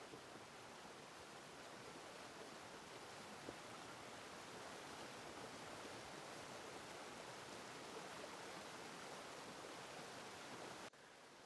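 Faint, steady rush of a mountain stream running over rocks; it drops abruptly to a lower level near the end.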